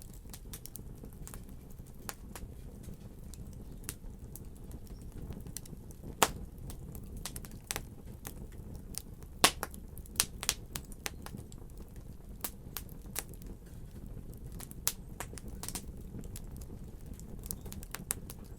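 Fire crackling: irregular sharp pops and snaps over a steady low rumble, the loudest pops about six and nine and a half seconds in.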